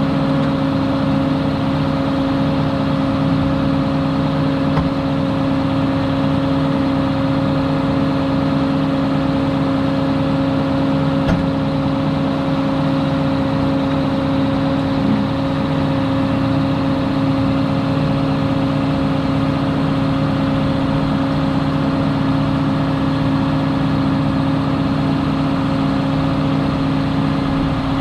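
Heavy farm vehicle's engine running at a steady speed, an unchanging drone, with one faint click about eleven seconds in.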